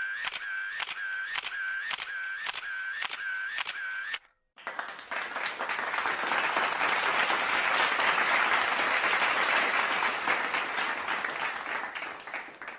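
Two sound effects in a row. First, a sharp click repeats about twice a second for some four seconds. Then, after a brief break, applause builds and fades away near the end.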